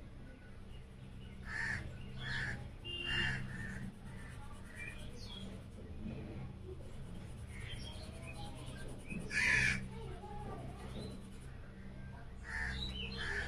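Short bird calls: three in quick succession about two seconds in, a louder one near the middle and more near the end, over a low steady hum.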